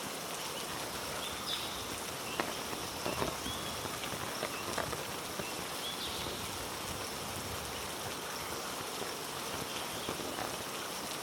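Heavy rain falling steadily on rainforest foliage, with a few sharper taps of drops and some brief high chirps.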